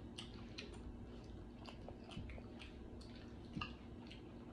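Faint close-up chewing and mouth smacking: a person eating soft rice, making a string of small, irregular wet clicks, with one louder smack about three-quarters of the way through.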